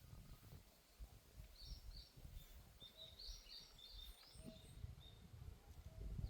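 Faint birdsong: a quick run of short, high chirps from about one and a half to four seconds in, over a low, uneven rumble from wind on the microphone.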